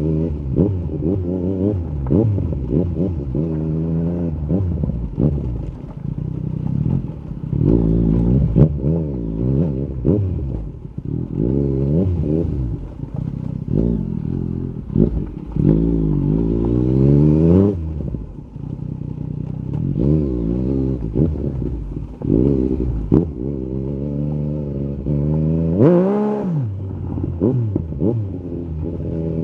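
Yamaha MT-09 SP three-cylinder engine through an Akrapovic carbon Racing-Line exhaust with the dB killer removed, accelerating and easing off again and again, its pitch climbing and dropping through the gears. A quick sharp rev rises and falls near the end.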